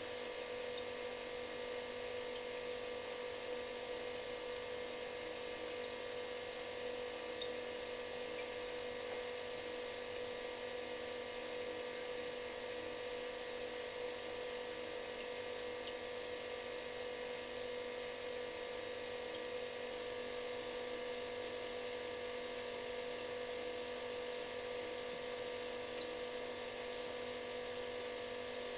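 Refrigerator running: a steady buzzing hum made of several fixed tones over a faint hiss.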